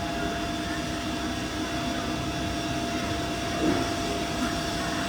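Steady hum of a CNC milling machine running, with a constant mid-pitched whine throughout and a brief faint bump near the end.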